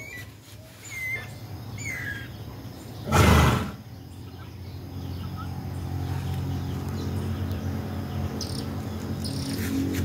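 Small birds chirping now and then. A brief loud rush of noise comes about three seconds in, and a low steady hum builds through the second half.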